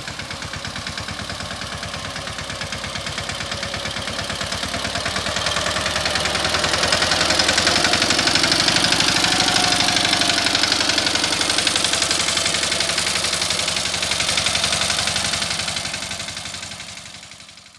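Tractor engine chugging with a fast, even beat, growing louder through the middle and fading out at the end.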